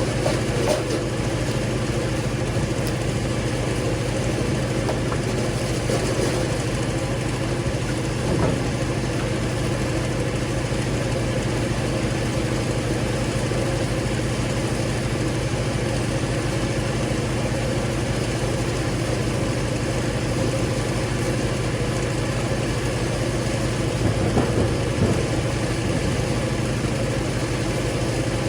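Engine of a firewood log splitter running steadily at constant speed, with a few short knocks now and then.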